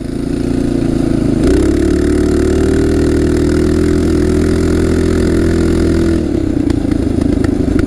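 Tillotson 212 single-cylinder racing engine on a minibike, rising in revs under throttle for about a second and a half. It then holds a steady high rev until about six seconds in, when the throttle comes off and the revs fall away.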